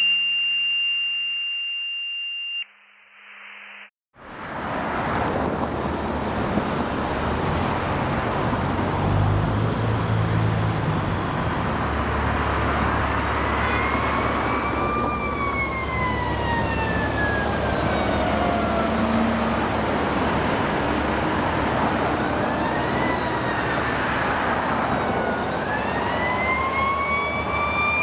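A steady electronic intro tone for the first couple of seconds, then a brief gap. From about four seconds in, a Seagrave fire engine's diesel engine runs loudly. From about halfway on, its siren wails in slow rises and falls, climbing again near the end.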